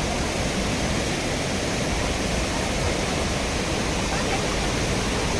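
Steady rush of fast-flowing water, an even, unbroken hiss.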